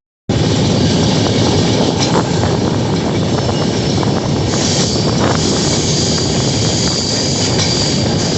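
Train running along the track: a loud, steady rumble and rattle of the wheels with a few sharp clacks, and a high steady whine that joins about halfway through.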